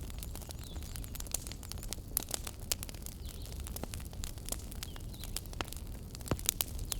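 Wood fire burning in a fireplace, crackling with irregular sharp pops over a steady low rumble of the flames; a few louder pops come close together near the end.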